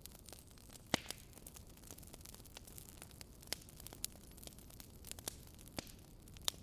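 Wood fire in a fireplace crackling: a low steady hiss with irregular sharp pops and snaps from the burning logs, the loudest pop about a second in and another near the end.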